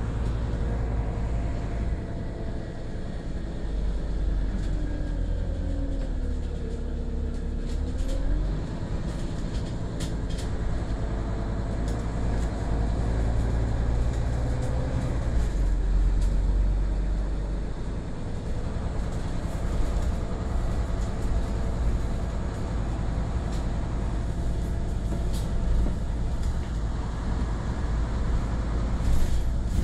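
Scania OmniCity city bus running, with a steady low diesel drone and drivetrain tones. A whine drops in pitch and climbs back about seven seconds in. Occasional light clicks and rattles.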